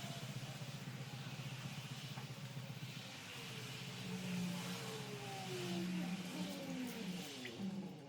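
A motor running steadily with a hum, its pitch sliding down in the last few seconds.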